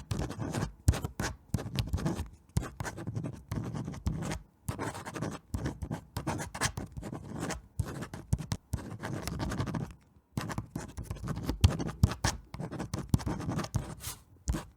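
Irregular scratching and crackling: a rapid, uneven run of short clicks and rustles, with brief pauses about four and a half and ten seconds in.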